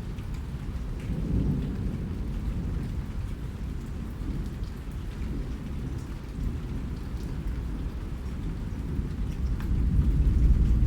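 Steady rain falling, with scattered sharp drop ticks over a deep low rumble. The rumble swells about a second in and grows louder near the end.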